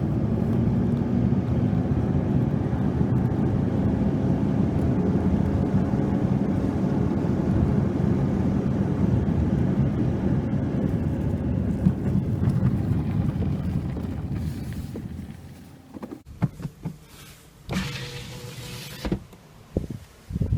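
A car driving, with steady engine and road rumble that dies away about fifteen seconds in. A few scattered knocks and a short rush of noise follow.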